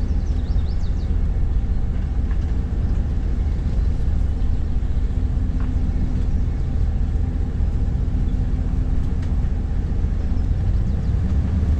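Vehicle driving slowly, a steady engine and road rumble heard from inside the cab.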